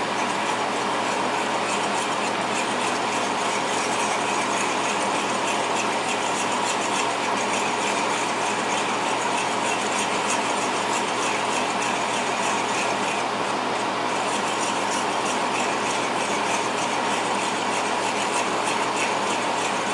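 Marsala sauce, thickened with a flour slurry, bubbling and popping steadily in the pan as it cooks down to thicken, a dense crackle of small pops.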